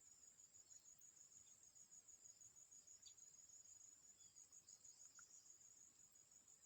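Crickets chirping faintly in a continuous high-pitched trill that pulses several times a second.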